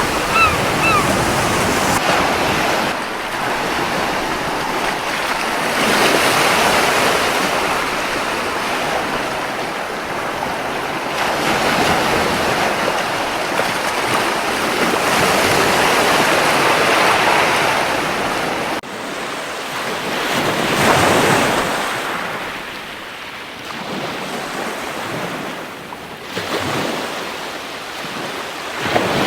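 Ocean surf washing onto a beach, swelling and falling back in slow surges. A quick run of gull calls sounds in the first second, and the surf drops suddenly about two-thirds of the way through.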